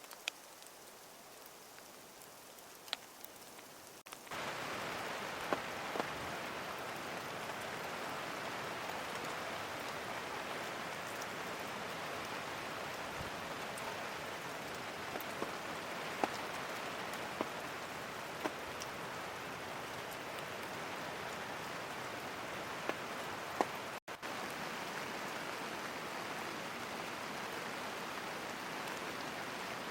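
Steady rain falling, with scattered sharper drop hits standing out. It is softer for the first four seconds, then jumps suddenly to a louder, fuller rainfall, and cuts out for an instant about 24 seconds in.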